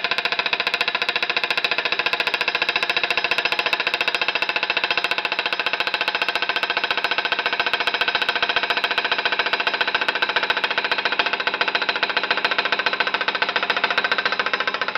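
Small homemade hot air engine (a steel-wool-filled metal cup on a silicone bellows with a brass funnel) vibrating against an aluminum plate, making a fast, steady, even metallic rattle as it skitters slowly across the plate.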